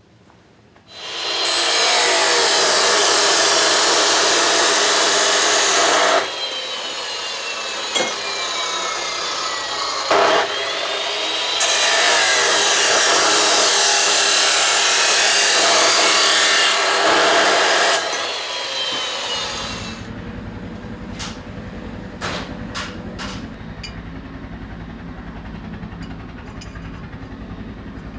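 Power tool working metal in two long, loud passes of several seconds each, with a whine that slides in pitch between them. After that a lower steady hum with a few sharp clicks.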